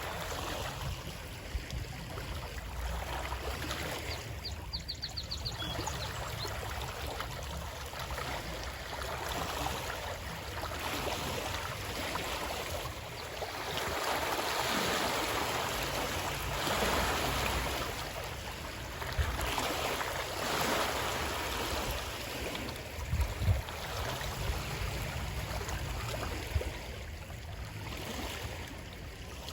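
Flowing water, a steady rushing that swells and eases over several seconds. A brief run of quick high ticks comes about four seconds in, and a few dull low knocks come later.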